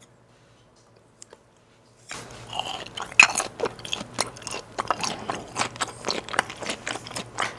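Close-miked chewing of raw yellowtail sashimi, the mouth right against the microphone: a dense, irregular run of small clicks and crackles that starts about two seconds in, after a short near-silent gap.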